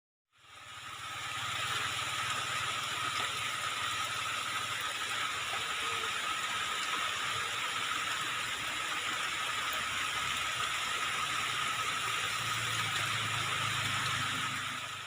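Steady hiss with a faint high tone running through it, fading in and fading out.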